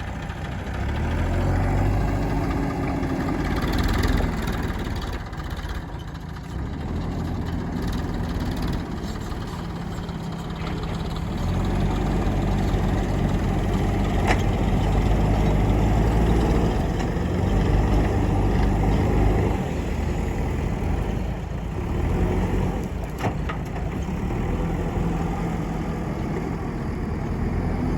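Diesel engine of a JCB backhoe loader running steadily, its loudness rising and falling as it works, with a couple of sharp knocks along the way.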